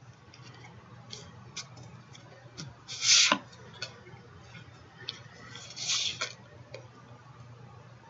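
Paper and card stock being handled on a craft table while mats are cut and glued: scattered light ticks and taps, with two louder rustling swishes, about three seconds in and again about six seconds in.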